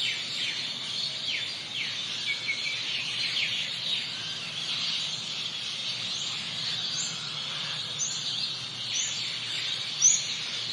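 Birds calling over a dense, steady chorus. Sharp downward-sweeping chirps come in the first few seconds, and short high rising calls repeat about once a second in the second half.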